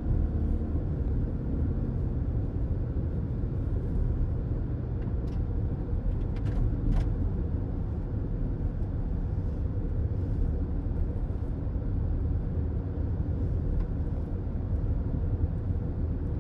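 Steady road and engine rumble of a car driving at highway speed, heard from inside the cabin, with tyre noise and a couple of faint ticks about five to seven seconds in.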